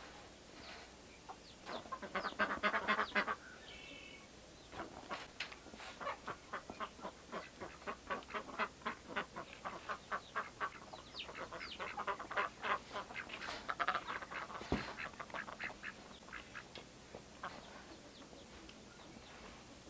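Poultry calling in quick runs of short, repeated calls, loudest about two seconds in and again around twelve to fourteen seconds.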